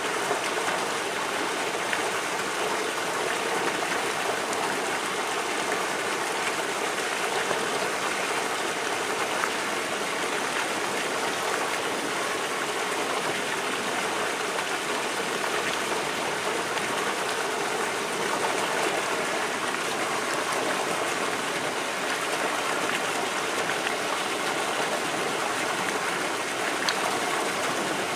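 Water falling steadily from a transparent plexiglass pool waterfall into the pool, an even splashing rush.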